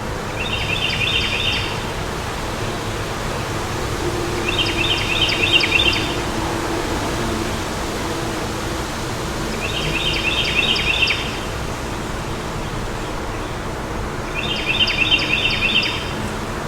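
Steady wind noise, with a songbird repeating the same short, quick trilled phrase four times, about every four to five seconds.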